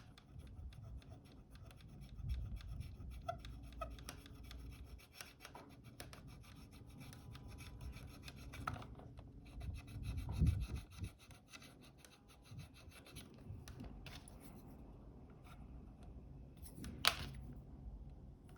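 Small hand tool scraping and rubbing at the Fuji GA645's shutter flex cable, working off softened, sticky glue, with a louder knock about ten seconds in and a sharp click near the end.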